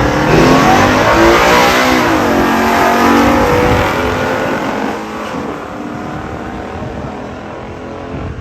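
Factory-stock muscle cars launching down the drag strip at full throttle, engines revving up with a dip in pitch at a gear change about two seconds in, then fading away as the cars run off down the track.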